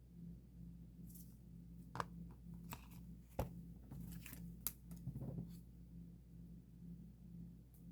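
Scattered light clicks and short scrapes of small objects being handled by hand, most of them in the first two-thirds.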